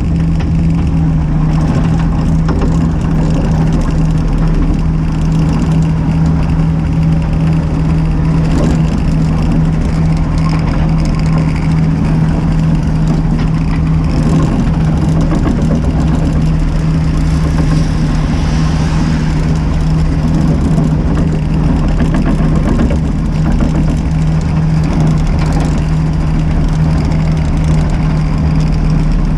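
Mini excavator's diesel engine running steadily at a constant speed, loud and close.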